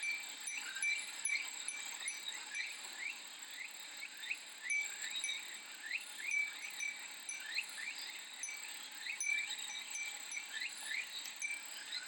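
Cicadas droning steadily, with a glass wind chime (fūrin) tinkling now and then among many quick rising chirps.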